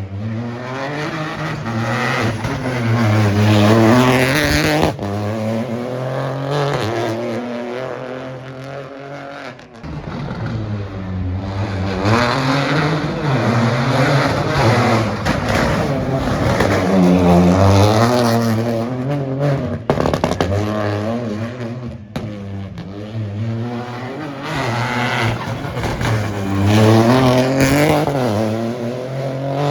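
Rally car engine revving hard on a special stage, pitch climbing and falling over and over with sharp cuts between climbs as it shifts and lifts. It swells loudest about four seconds in, through the middle and again near the end.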